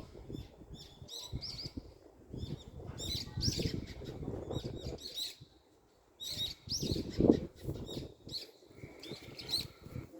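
Many small birds chirping in quick, high calls, over an uneven low rustling noise that drops out briefly about six seconds in.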